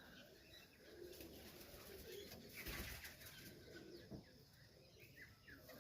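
Faint cooing of domestic highflyer pigeons, soft low coos repeating now and then.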